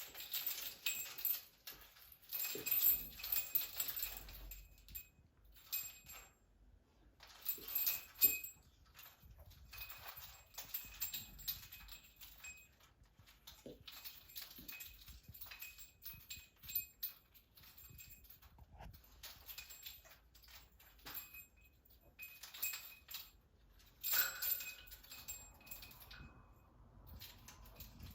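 A pet bird playing with its toys: irregular clattering, tapping and rattling, in louder bouts near the start, about eight seconds in and near the end.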